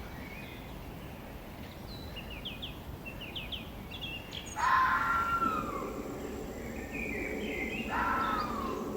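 Forest ambience with birds calling: a quick series of short high chirps, then a louder call falling in pitch about halfway through and again near the end, over a steady background hiss.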